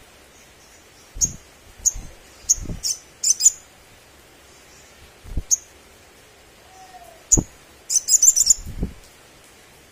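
Sunbird (sogon) giving short, sharp, high chip calls about once a second, breaking into a quick run of chattering notes near the end.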